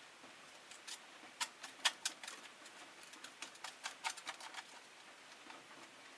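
Rosy-faced lovebirds clicking and tapping in their cage: an irregular quick run of sharp clicks, densest over the middle few seconds, with no chirps.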